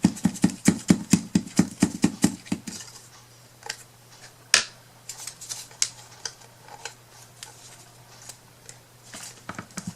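Quick, even run of sharp clicks, about four a second, for about three seconds, then a few scattered clicks and taps: hand tools and materials being worked at a craft table.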